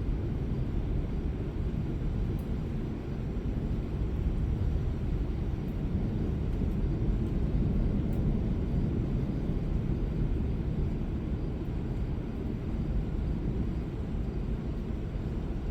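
Steady low rumble of a thunderstorm that swells slightly midway, with no sharp thunderclaps.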